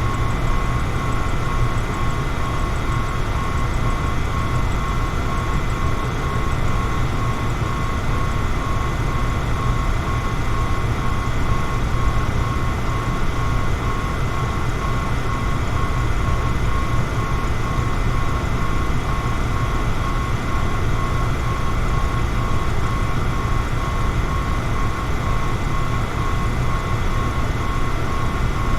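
Electric fan running steadily: an even rush of air over a low hum, with a faint high whine held throughout.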